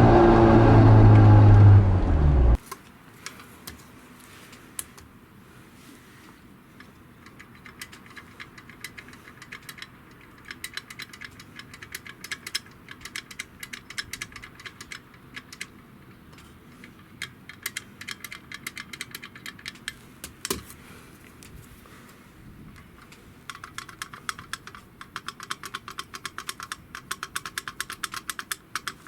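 A loud pitched drone for the first two and a half seconds that cuts off abruptly, then runs of rapid, light metallic clicking and rattling from removed car clutch parts being handled and turned by hand.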